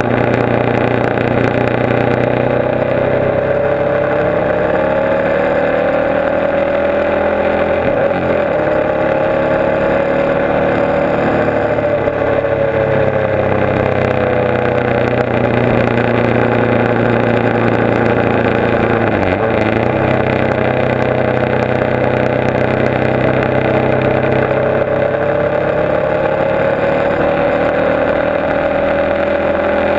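Motorcycle engine running at road speed, its pitch rising and falling gently with the throttle, with brief dips in pitch about eight and nineteen seconds in. A steady rush of wind and road noise runs under it.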